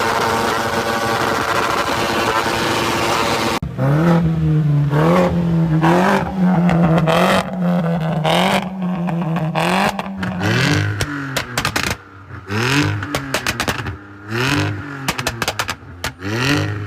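BMW M car engine and exhaust revving hard: a steady high-rev run, then repeated rev blips rising and falling in pitch, broken up near the end by crackles and pops between blips.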